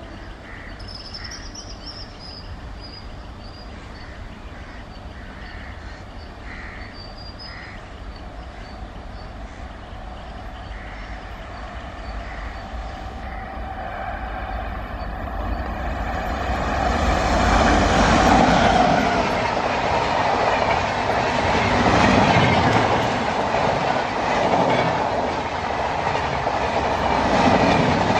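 Express train hauled by a WAP-7 electric locomotive approaching with a low rumble that slowly grows, then running past close by from about halfway through, loud with the rattle and clickety-clack of coach wheels over the rail joints.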